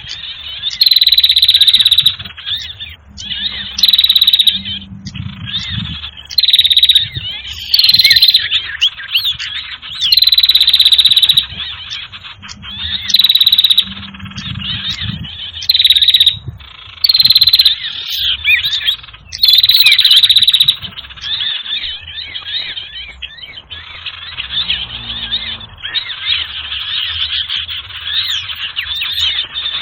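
Bird-lure (pikat) recording for trapping small birds: a noisy chorus of many small birds chirping and twittering. Loud bursts come every two to three seconds until about two-thirds of the way through, then give way to softer, steadier chirping.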